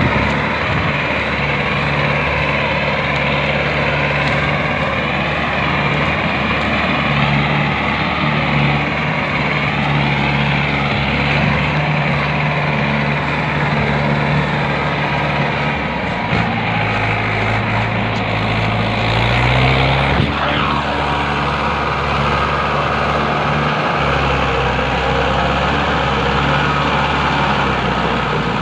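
Mahindra 585 tractor's diesel engine running steadily. Its pitch drops about sixteen seconds in, rises again near twenty seconds, then settles at a lower speed from about twenty-four seconds.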